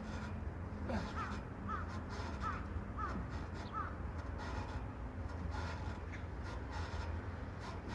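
A crow cawing, about five short caws in quick succession over a second to four seconds in, over a steady low outdoor rumble.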